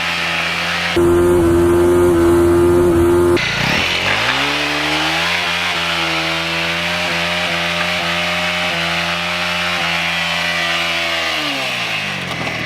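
Motorcycle engine held at high, steady revs; the pitch jumps abruptly about a second in and again about three seconds later, then climbs, holds steady for several seconds, and drops away near the end.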